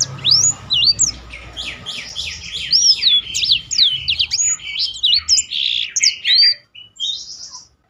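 Blackthroat songbird singing a fast, varied song of rapid rising and falling whistled notes and trills, ending in a short buzzy trill near the end.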